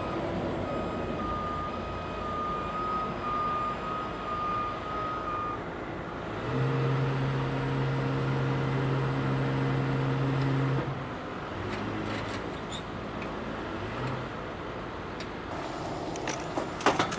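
Heavy truck running with a backup alarm beeping steadily for the first five seconds, then the engine held at raised revs for about four seconds before dropping back. A few sharp clicks near the end.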